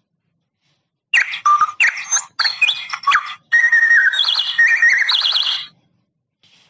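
Electronic doorbell sound chip playing its recorded bird chime: a run of chirps, warbles and whistles in several short phrases. It starts about a second in and stops about four and a half seconds later.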